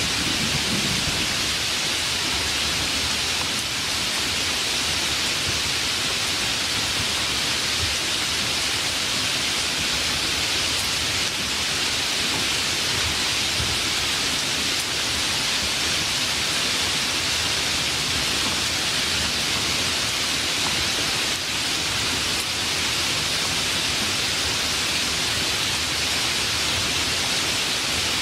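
Steady rain falling, an even hiss, with the end of a low thunder rumble dying away in the first second.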